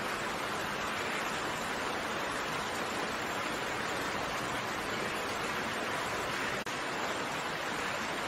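Steady rain, an even hiss of falling raindrops, with a split-second dropout about two-thirds of the way through.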